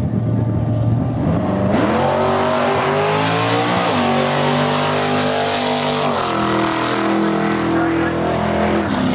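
Fox-body Ford Mustang engine idling on the drag strip's starting line, then launching under full throttle about two seconds in on an eighth-mile pass. The revs climb steeply, drop at a gear change about four seconds in, climb again and drop at a second shift a couple of seconds later. The engine lets off near the end.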